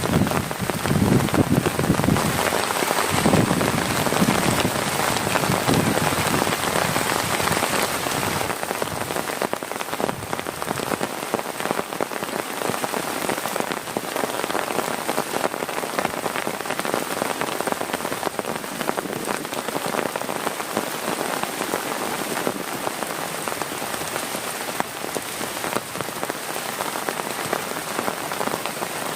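Heavy rain falling steadily, a dense even hiss of drops. For the first eight seconds or so a deeper sound runs underneath, then drops away.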